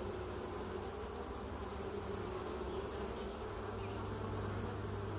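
Many honeybees buzzing around an open hive: a steady, unbroken low hum.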